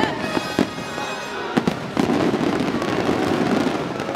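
Aerial fireworks show: a few sharp bangs of shells bursting in the first second and a half, then a denser, louder rush of crackling bursts from about two seconds in.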